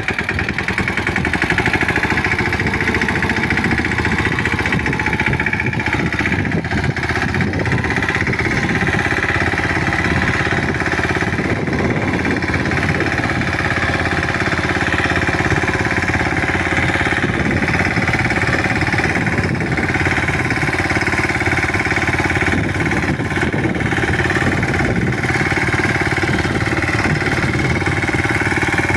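Mahindra 215 tractor's single-cylinder diesel engine running steadily, with a fast, even knocking beat.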